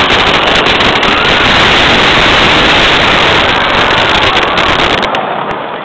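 Dense barrage of crackling fireworks, a loud continuous hiss of fast pops with low rumble underneath, which cuts off suddenly about five seconds in.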